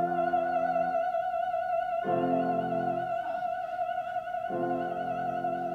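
An operatic female voice holds one long high note with wide vibrato, the final held note of an aria, while a piano strikes three sustained chords beneath it.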